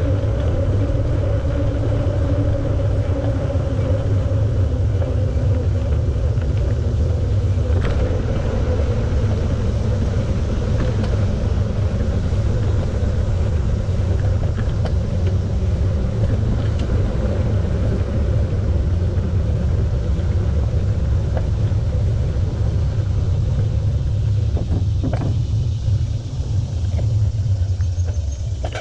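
Steady low wind rumble buffeting the microphone of a camera on a moving bicycle, with a few faint clicks.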